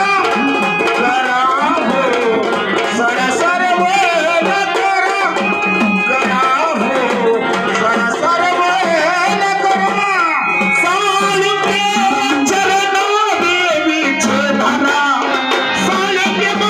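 Live Marathi folk music in kalgitura style: a dholki hand drum playing with pitched melody instruments, without a clear lead voice.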